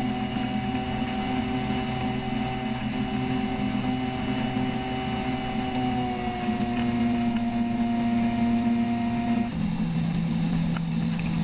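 Engine of a homemade flying boat running steadily, with a humming tone that dips slightly about six seconds in and shifts abruptly near the end.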